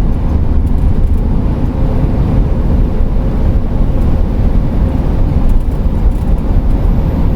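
Steady low rumble of road and engine noise inside a moving camper van as it drives along.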